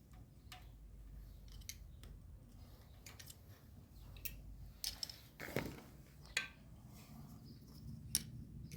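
Scattered light clicks and clinks of handling, with a longer, louder rasp about five and a half seconds in and sharp clicks near six and a half and eight seconds.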